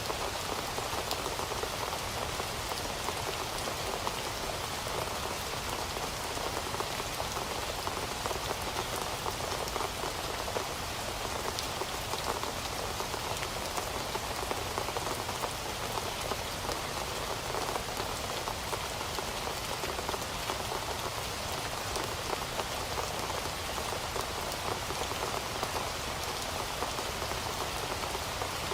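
Heavy rain falling steadily on a surface, a dense even hiss speckled with countless small drop impacts.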